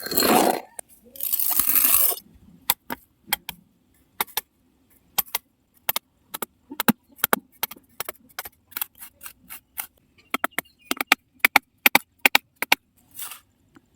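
Irregular sharp clicks and taps of small hard parts being handled and set down, about two or three a second at times. There are two short rushing noises in the first two seconds.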